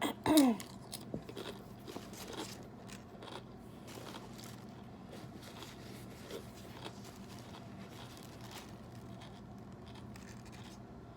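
Close-up chewing of a Subway tuna sandwich with crisp vegetables: soft crunching and small wet mouth clicks. There is a short vocal sound falling in pitch just after the start.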